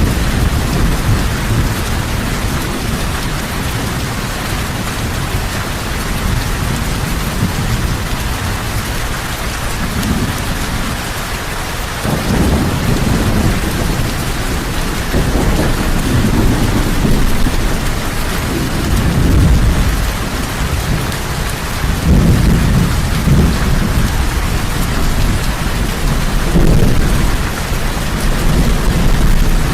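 Heavy rain falling steadily, with low rolling thunder that swells up about twelve seconds in and again a little past twenty seconds.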